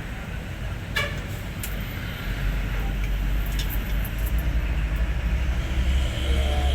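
Diesel truck engine running at a steady idle, a low rumble, with a couple of sharp clicks a second or two in.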